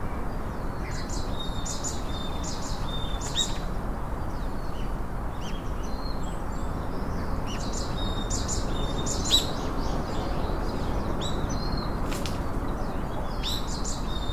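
Small birds chirping in quick bursts of high, short calls, four or five clusters in all, over a steady background noise.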